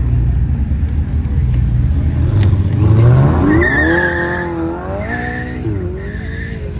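A car engine idling low, then revving hard about three seconds in, its pitch climbing and holding before dropping back and blipping up again. A high squeal comes and goes three times alongside the revs.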